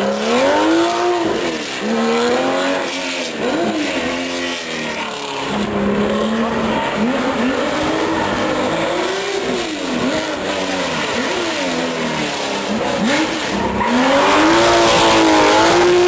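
Porsche 911 flat-six engine driven hard, its pitch rising and falling over and over as it revs through the gears and lifts off. Near the end it climbs long and high, the loudest part.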